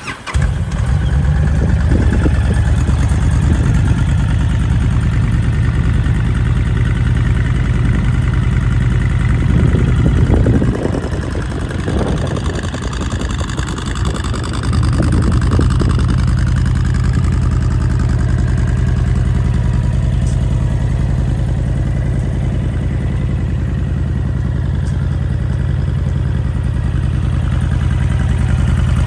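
2019 Honda Fury's 1312 cc V-twin on its stock exhaust, starting up and settling into a steady idle. A few short throttle blips come between about ten and sixteen seconds in, and then it idles evenly again.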